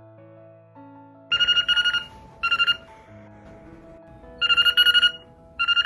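A telephone-style ring, a fast trilling two-pitch tone, sounds in four bursts: two near the start, with a pause between them, and two more near the end. Background music plays underneath.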